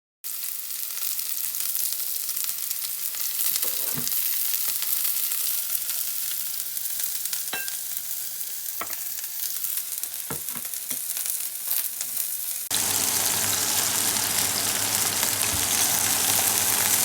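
A steady hiss with a few scattered sharp clicks, like food sizzling in a pan. About two-thirds of the way through it cuts abruptly to a louder, fuller hiss.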